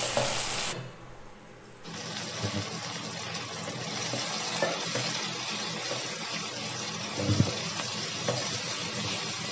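Sliced tomatoes and onions sizzling as they fry in oil in a pan, stirred with a spatula. The sizzle drops away briefly about a second in, and a spatula knock against the pan stands out about three-quarters of the way through.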